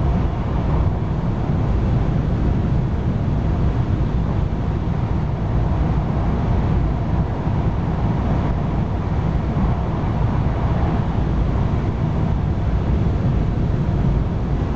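Steady low rumble and rush of a Chinese CRH high-speed train running at speed, heard inside the passenger cabin.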